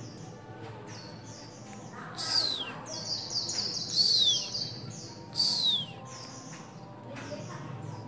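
Small bird chirping: a run of short high chirps, with three louder calls that slide down in pitch, about two, four and five and a half seconds in.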